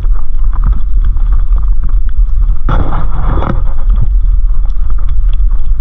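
Wind buffeting the camera microphone in a snowstorm: a loud, steady low rumble, with a brief louder rushing patch about three seconds in.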